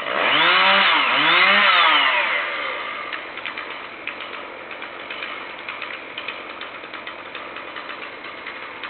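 Chainsaw engine revved twice in quick succession, its pitch rising and falling each time, then dropping back to a quieter, steady running with a light ticking rattle.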